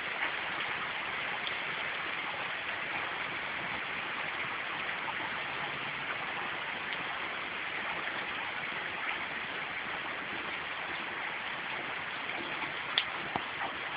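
Steady rain falling, an even hiss flecked with small drop ticks, with a sharper single tap about a second before the end.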